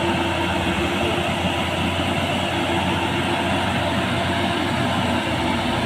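Heavy vehicle engine running steadily, with a continuous low hum; the lowest note shifts about five seconds in.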